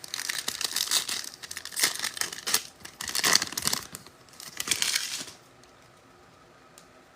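Foil trading-card pack wrappers being torn open and crinkled in the hands, a run of crackling rips that stops about five seconds in.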